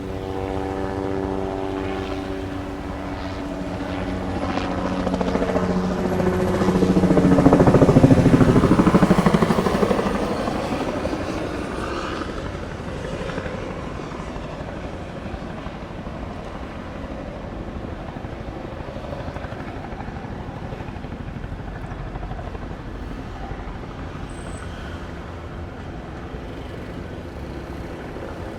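Helicopter passing overhead: its engine and rotor tones fall in pitch as it approaches, loudest about eight seconds in, then fade away.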